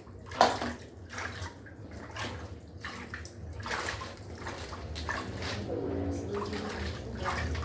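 Electrolux top-loading washing machine on its wash cycle: water and clothes sloshing irregularly in the tub over a steady low motor hum.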